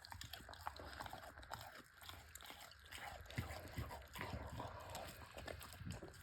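Pit bull chewing grilled meat: faint, irregular bites and mouth smacks.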